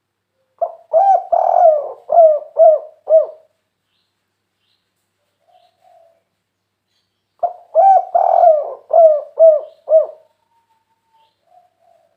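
Spotted dove (tekukur) of the prized 'kuk 3' type cooing twice. Each phrase is a short opening note and a longer coo, ending in three quick, clipped 'kuk' notes.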